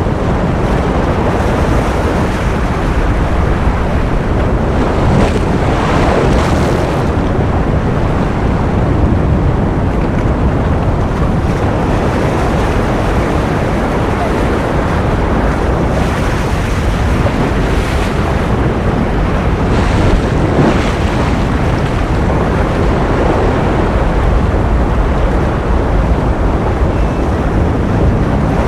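Ocean surf sound as continuous white noise: a loud, steady rush heaviest in the low end, with a few faint swells rising and falling every several seconds.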